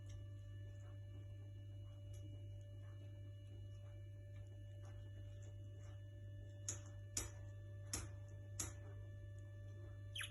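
Small pet birds giving short, sharp chirps that drop in pitch, four in quick succession about two-thirds of the way through and one more at the end, over a steady low electrical hum.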